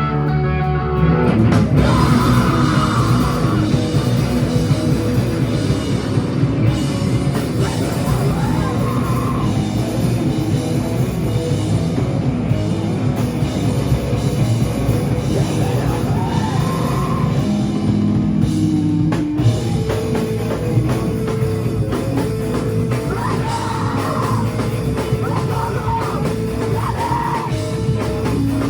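Live rock band playing a song loudly: electric guitars, bass and drum kit with sung vocals. The full band comes in just after the start, out of lighter guitar playing.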